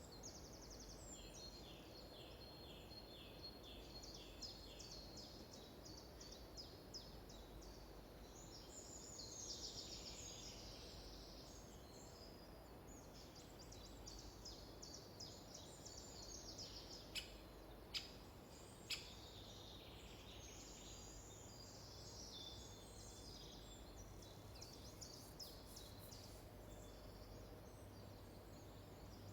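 Forest songbirds singing faintly, with repeated chirp series and trills overlapping from several birds. Three sharp clicks about a second apart come a little past the middle.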